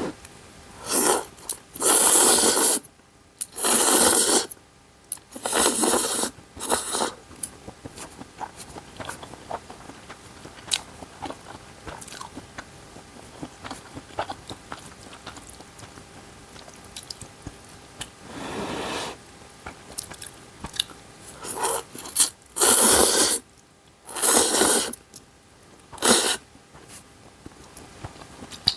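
Close-miked eating of ramen and dumplings: a series of loud, noisy bursts of about a second each, in two clusters, with quieter chewing and small mouth clicks between.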